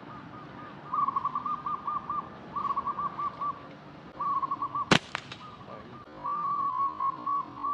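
A bird calls in three runs of quick, evenly repeated notes at one pitch. About five seconds in, a slingshot's rubber bands snap sharply as a shot is released, the loudest sound.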